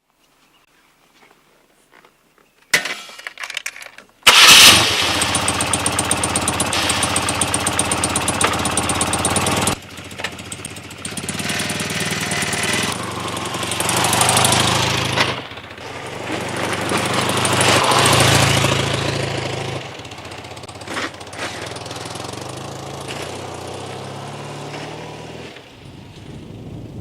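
A motorcycle engine is started: a short bout of cranking, then the engine catches about four seconds in and runs with an even beat. Later the engine note drops, swells twice as the bike gets under way, then settles to a steady run.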